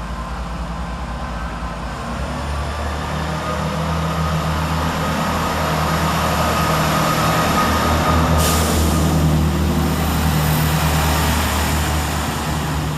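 Class 165 diesel multiple unit's engines running and building up under power as it pulls away, a steady low drone that grows louder after about two seconds. A short sharp hiss about eight seconds in.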